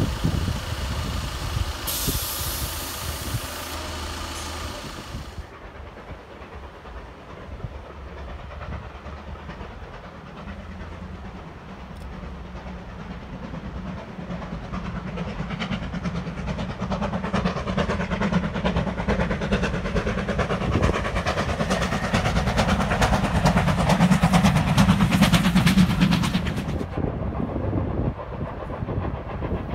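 A Class 144 Pacer diesel railcar running, with a loud hiss from about two to five seconds in. After a cut, a steam locomotive hauling a train grows steadily louder as it approaches, with dense wheel and exhaust noise. It is loudest shortly before cutting off abruptly near the end into quieter trackside sound.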